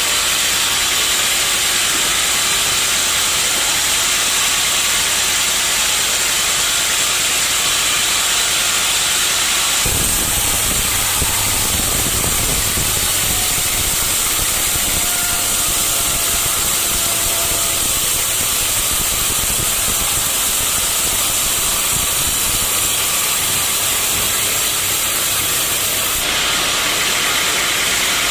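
Sawmill machinery running while a log is sawn: a loud, steady, hissing noise, with a deeper motor rumble coming in abruptly about ten seconds in.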